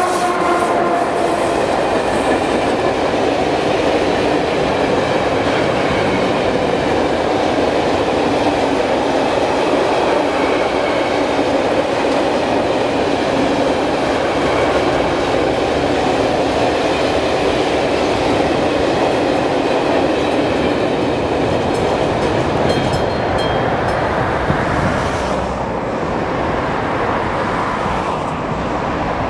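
Train rolling past over the level crossing, a steady loud run of wheel-on-rail noise with some clickety-clack from the passing wagons, easing slightly near the end.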